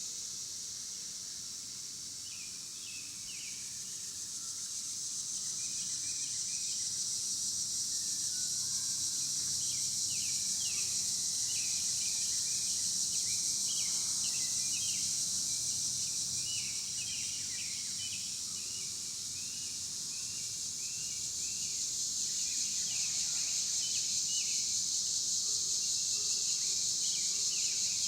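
A steady high-pitched insect chorus that slowly swells and fades, with many short bird chirps scattered over it, thickest from about a quarter of the way in.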